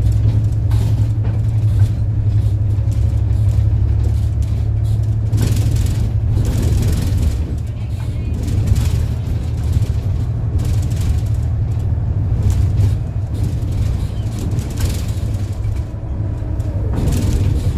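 City bus engine droning steadily inside the passenger cabin while under way, with frequent rattles and knocks from the bus body throughout.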